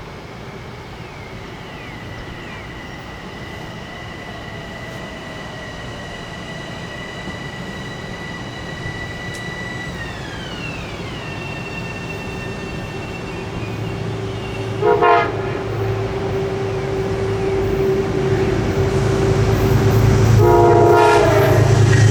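A Metro-North train approaches: a steady high whine drops in pitch about ten seconds in, then the train's horn gives a short blast and, near the end, a longer blast over a rising low rumble as the train draws near.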